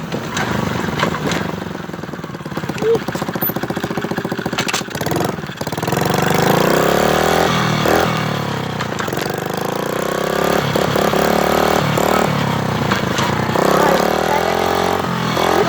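Motorcycle engine running, uneven and low for the first few seconds, then revved up and down repeatedly from about six seconds in.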